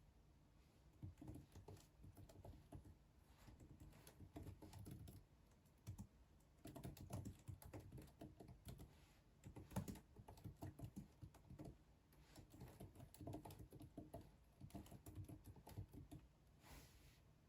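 Faint typing on a computer keyboard: quick runs of key clicks in bursts of a few seconds, with short pauses between them.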